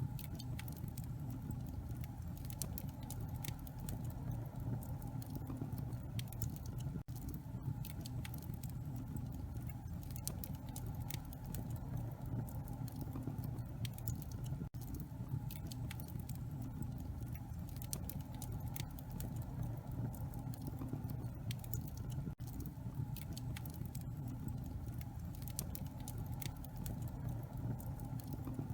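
Wood fire in a fireplace crackling: many small sharp pops and snaps over a steady low rush of the flames.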